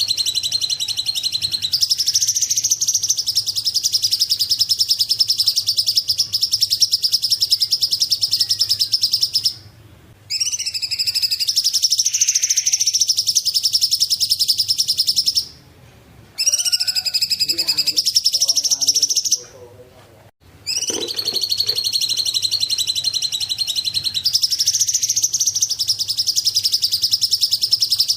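Song of the bird called cungkok in Indonesia: a loud, rapid, high-pitched trill that runs on in long phrases, breaking off briefly three times.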